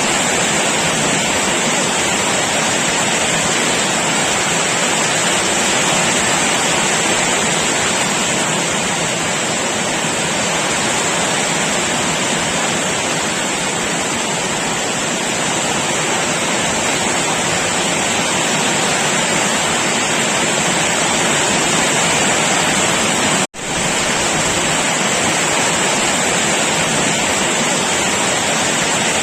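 Heavy rain falling in a steady, dense hiss. The sound drops out for an instant about two-thirds of the way through, then resumes.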